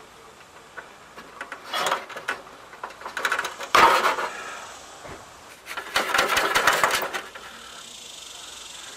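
Metal clanking and rattling as an exhaust muffler is wrestled off its rubber hangers under a car. There is a sharp knock about four seconds in and a run of rapid rattles around six to seven seconds.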